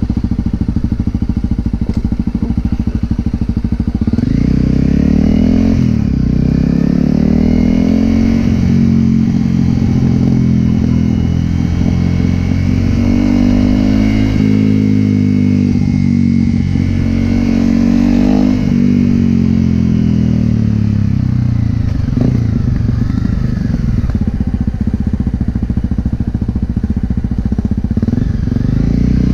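Honda CRF250L's single-cylinder engine running through a Yoshimura aftermarket exhaust while the bike is ridden, its revs climbing and dropping several times as it pulls through the gears.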